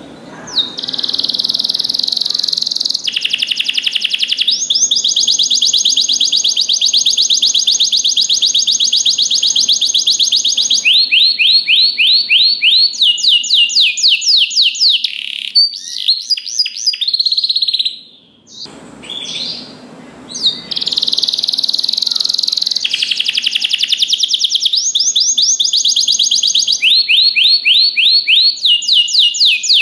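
Domestic canary singing a long, continuous song of rapid rolling trills, each a run of fast repeated high notes, switching to a new trill every few seconds. The song breaks off briefly about two thirds of the way through, then resumes.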